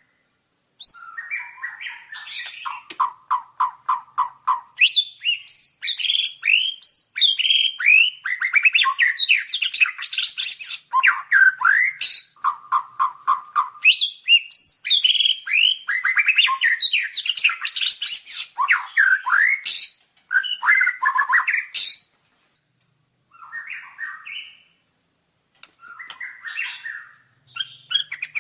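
White-rumped shama (murai batu) singing a long, varied song of clear whistles, sweeping notes and sharp clicks, broken twice by rapid trills of repeated notes. After a short pause about three-quarters of the way through, it gives a few shorter, quieter phrases.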